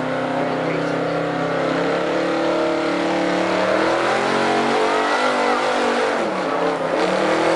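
Pickup truck engine running hard under load while pulling a weight sled. The note holds steady, then about four seconds in its pitch drops and wavers as the engine is pulled down.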